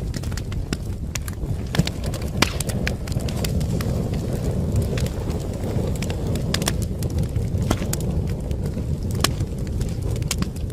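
Fireplace fire crackling: irregular sharp pops and snaps over a steady low rush of burning flames.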